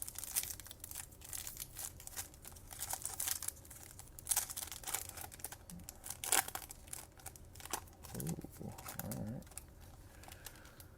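Foil trading-card pack wrapper being crinkled and torn open by hand, a run of irregular crackles and rips, with the cards handled as it is opened.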